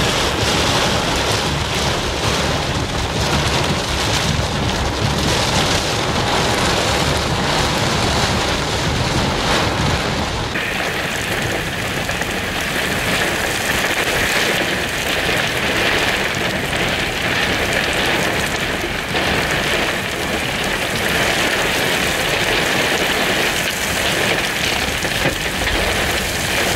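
Heavy storm rain, a loud, steady rushing hiss. About ten seconds in, a low rumble underneath drops away and the hiss sits higher.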